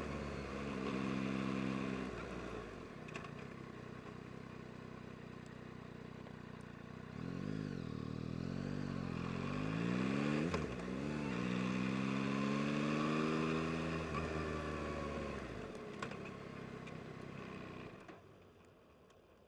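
2022 Yamaha MT-09 SP's three-cylinder engine running under way, its pitch rising and falling with the throttle: a few quick up-and-down revs in the middle, then a slow drop in revs. The engine sound falls away sharply near the end.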